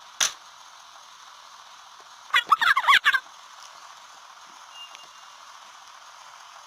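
A single sharp click, then, a little over two seconds in, a short, rapid, warbling animal call of quickly repeated pitched notes lasting about a second.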